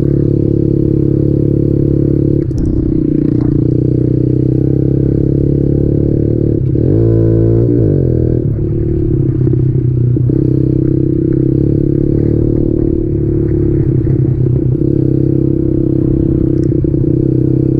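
Kawasaki KLX110 pit bike's single-cylinder engine running steadily under way, with the revs shifting briefly about seven seconds in.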